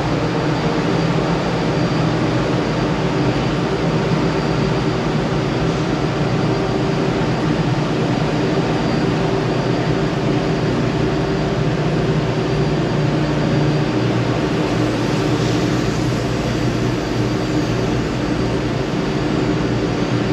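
Steady, loud ship engine-room machinery noise: an even rushing drone with several constant hum tones underneath, unchanging throughout.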